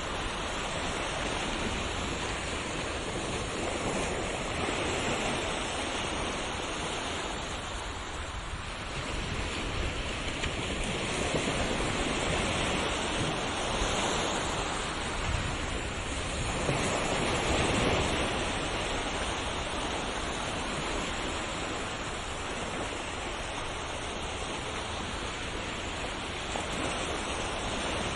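Ocean surf: a continuous rush of waves that swells and eases every few seconds, with its strongest surges in the second half.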